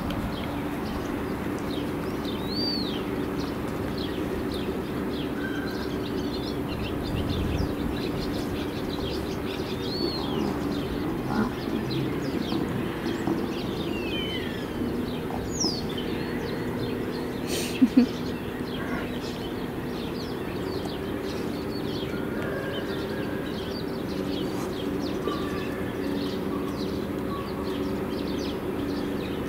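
Small birds chirping now and then, with short whistles that rise and fall, over a steady low hum. Two sharp clicks come a little past halfway.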